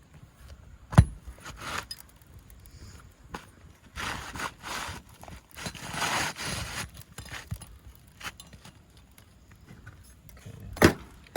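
Hand tools working asphalt roof shingles: a nail being pried out and shingles scraped and slid into place, with rough scraping stretches and a sharp knock about a second in and again near the end.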